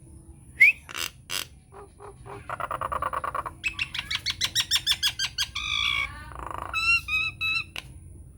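Nias hill myna singing a varied run of calls: a rising whistle and sharp clicks, a buzzy rasp, a fast stuttering string of notes, then three short whistled notes near the end.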